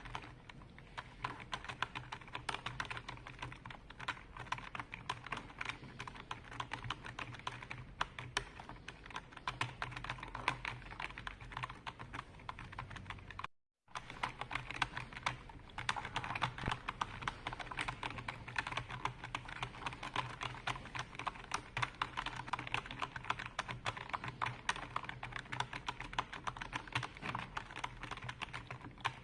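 Continuous fast typing on a computer keyboard: a dense stream of key clicks with no pauses. Shortly before halfway the sound cuts out completely for a split second.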